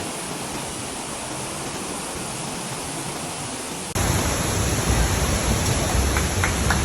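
Steady rush of waterfall water. About four seconds in it cuts abruptly to a louder, closer recording with more low rumble, with a few faint short ticks near the end.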